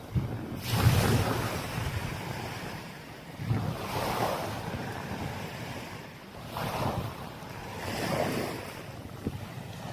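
Sea waves washing onto a sandy beach, swelling and falling away about four times, with wind buffeting the microphone.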